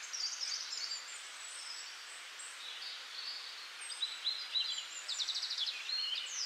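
Small birds chirping and twittering faintly over a steady hiss, with a quick rapid trill near the end.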